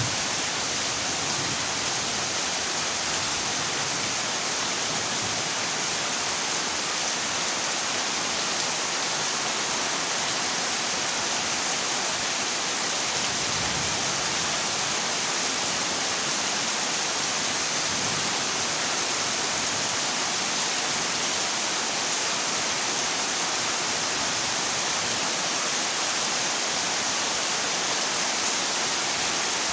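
Heavy rain falling on a corrugated zinc roof, a steady, even hiss with no breaks.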